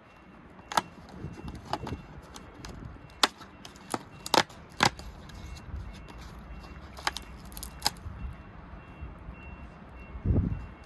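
Sharp plastic clicks and handling noises, about eight in all, as a Kinder Surprise egg's toy capsule and parts are handled, with a dull thump near the end. Faint short beeps repeat evenly throughout.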